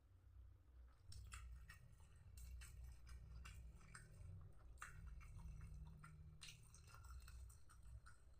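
A person chewing mouthfuls of smashed fried tempeh close to the microphone. The chewing is faint, with many small irregular crunchy, wet clicks.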